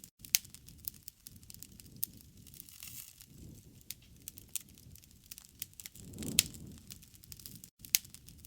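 Wood fire crackling, with frequent irregular sharp pops and snaps over a low rushing noise that swells up about six seconds in. The sound cuts out for an instant twice.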